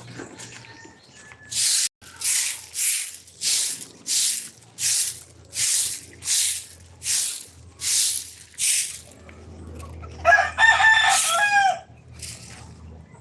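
A rooster crowing once, about ten seconds in. Before it comes a run of about eleven even, hissing swishes, a little under a second apart.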